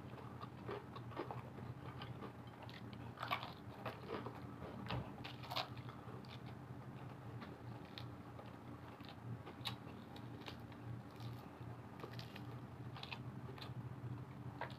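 Mouth close to the microphone chewing crunchy broasted chicken, its fried crust crackling in irregular crisp bites, the loudest a little after three seconds and again at about five and a half seconds. A steady low hum runs underneath.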